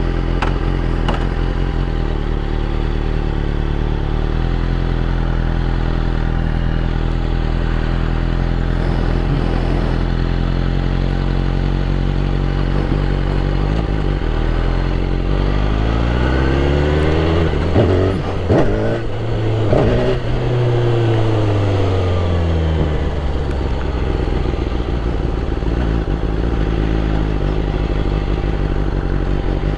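BMW S1000RR superbike's inline-four engine running steadily. About halfway through it revs up sharply, then drops back to a steady run.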